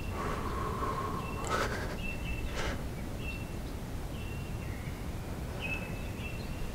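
Songbirds calling outside a hunting blind: short, high, level whistled notes repeated every half second to a second, with a lower held note in the first second or so. Two brief knocks from handling the camera come about one and a half and two and a half seconds in.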